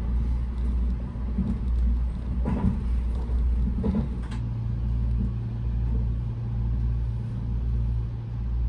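Train running, heard from a passenger seat inside the car: a steady low rumble with a hum that settles in about halfway through, and a few light knocks around the middle.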